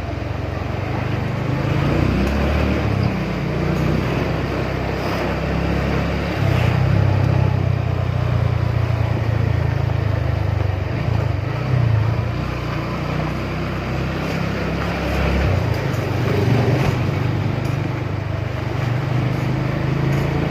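Motorcycle engine running while riding, a steady low rumble under a constant haze of road noise.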